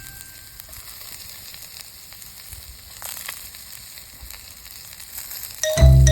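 Food sizzling over a campfire, a soft steady hiss with small crackles. Background music comes in loudly near the end.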